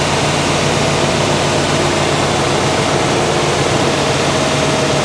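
Freshly rebuilt 396 big-block Chevrolet V8 running steadily and loudly on its first start-up, with an even, unchanging note.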